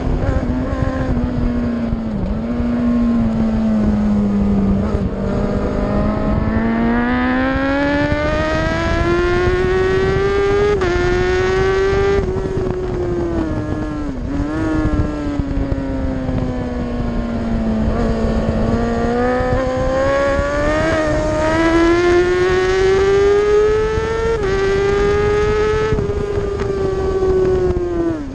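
Onboard sound of a superbike's engine at race pace, its pitch climbing under acceleration with slight steps down at upshifts, then falling away for several seconds as it slows for a corner before climbing again.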